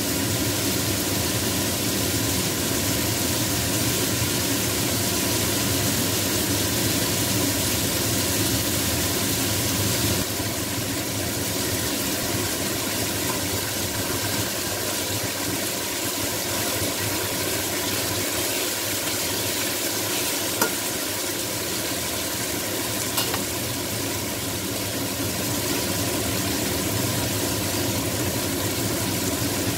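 Diced chicken sizzling in oil in an aluminium pan, stirred with a spatula, over a steady hum. Two short sharp clicks come about two-thirds of the way through.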